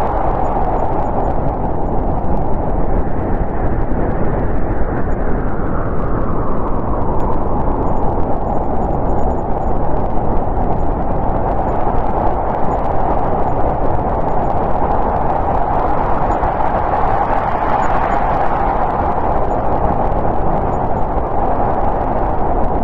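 Howling snowstorm wind blowing steadily, swelling into stronger gusts near the start and again about two-thirds of the way through.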